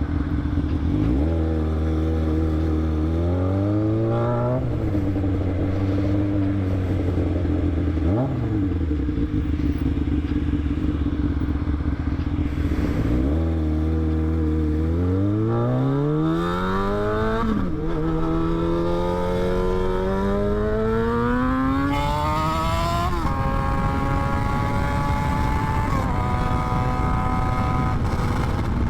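Motorcycle engine under way, its revs climbing and dropping back several times as the rider works the throttle and gears, then holding nearly steady near the end, with wind rushing past.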